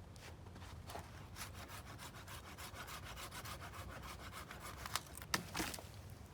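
Dry, crackly rubbing and scraping, with a few sharper knocks about five seconds in.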